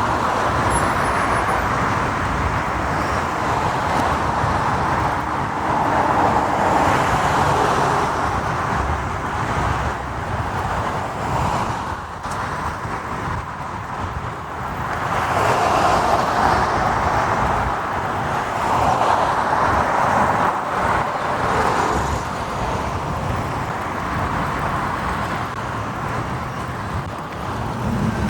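Motorcycle ride in city traffic: a steady rush of wind and road noise that swells and eases several times, with surrounding traffic.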